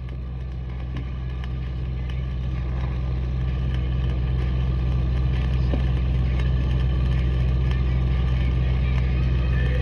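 An engine runs steadily with a deep hum, growing louder over the first few seconds and then holding level.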